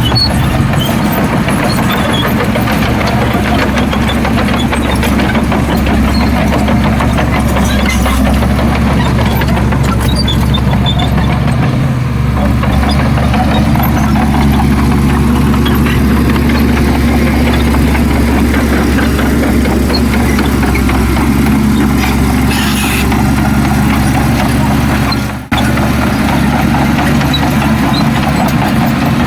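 Heavy diesel engine of earthmoving machinery running steadily with a low drone, cut off briefly about 25 seconds in.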